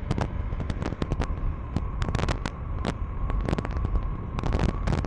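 KTM 390 Enduro R's single-cylinder engine running with road and wind rumble on a rough dirt road, broken by many irregular sharp clicks and knocks such as gravel and stones striking the bike.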